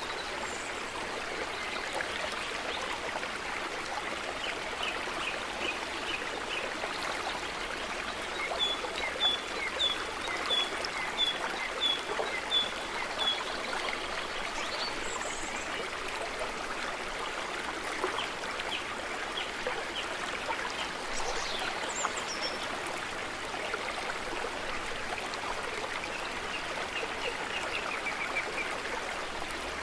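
Stream water running steadily over stones, with small birds chirping in short series of quick repeated notes. The clearest series comes about a third of the way in, and more follow near the end.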